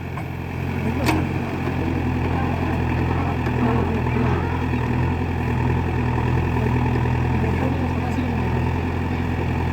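Heavy diesel machine engine running steadily at a constant speed, with a single sharp knock about a second in.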